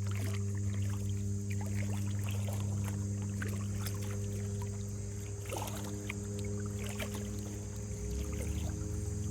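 An engine drones steadily with a low, even hum and overtones, its pitch shifting slightly near the end, with faint light clicks over it.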